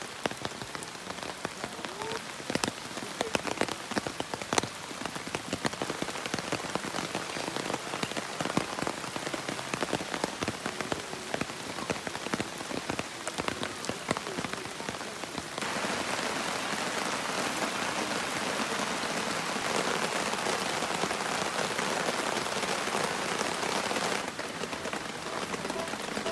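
Heavy rain falling, with many single drops clicking sharply on a surface close by. About fifteen seconds in it turns to a denser, steadier hiss for several seconds, then eases back.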